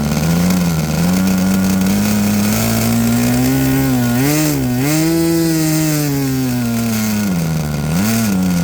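Small glow-fuel (nitro) model airplane engine running and being throttled up and down: its pitch climbs over about five seconds with a brief dip midway, falls back, then blips up and down once near the end.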